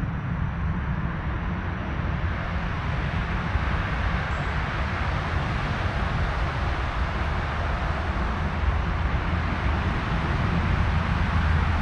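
Steady rumble of road traffic from a nearby major road, a continuous wash of noise with no single vehicle standing out.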